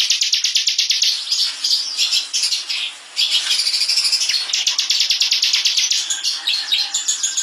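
Bar-winged prinia (ciblek) singing a dry, very fast trill of rapidly repeated high notes, the 'ngebren' song, broken by brief pauses and varied chirps.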